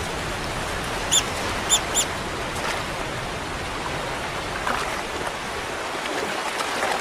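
Steady rush of river water flowing below a waterfall. About a second in, three short high-pitched chirps sound in quick succession.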